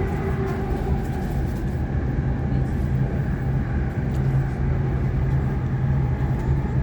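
Sydney Trains Waratah B-set electric train running along the line, heard from inside the carriage: a steady rumble of wheels and running gear with a constant low electric hum.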